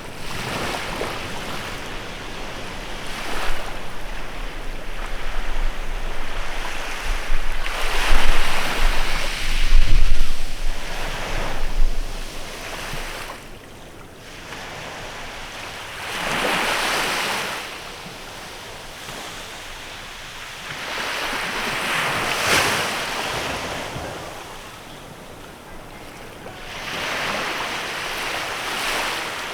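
Small waves breaking and washing up a beach in the bay, one swell of surf every five or six seconds. Wind rumbles on the microphone through the first part, then drops away.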